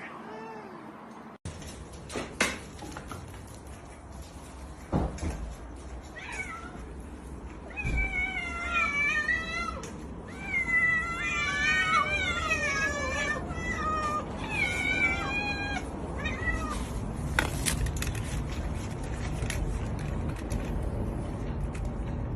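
A cat meowing: several long, wavering cries in a row, from about eight seconds in to about sixteen seconds, with a few scattered knocks around them.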